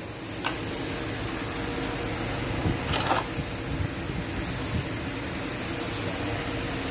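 Steady machine-like hum and hiss, with two short sharp clicks, about half a second and three seconds in.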